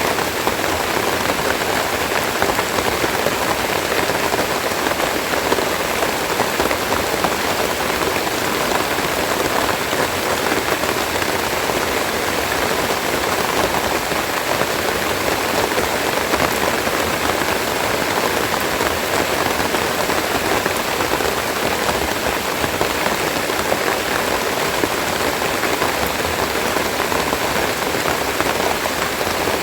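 Steady, heavy rain pattering on leaves and surfaces.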